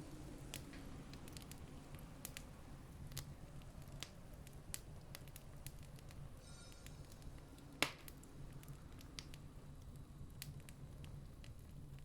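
Campfire crackling: scattered small pops and snaps from burning wood, with one louder pop about eight seconds in, over a faint steady low rumble.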